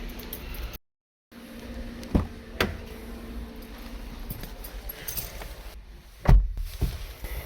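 Car-entry handling noises in a Subaru Levorg: two sharp knocks or clicks, then a heavy thud about six seconds in, typical of the driver's door being shut, with a smaller knock just after. The sound cuts out completely for half a second about a second in.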